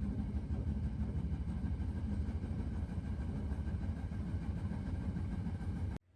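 Steady low rumble of a moving vehicle, cut off abruptly near the end.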